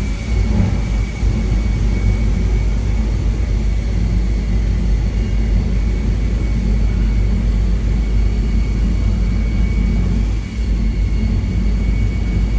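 Jet truck's jet engine running steadily: a loud low rumble with a steady high whine above it, dipping briefly near the end.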